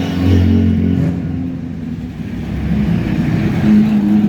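Classic sports car engines passing one after another in a convoy: a loud engine fades away in the first two seconds, then the next car's engine comes up near the end.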